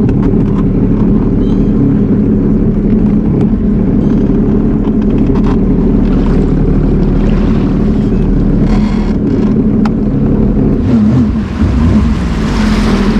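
Sea-Doo personal watercraft engine running steadily at low speed. Its note wavers up and down near the end as the throttle is worked, with wind and water noise over it.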